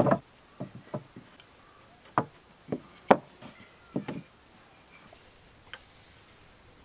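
Irregular wooden knocks and taps from hand-tool woodworking, about ten in all. The loudest come right at the start and about three seconds in, and after about four seconds there is only one faint tap.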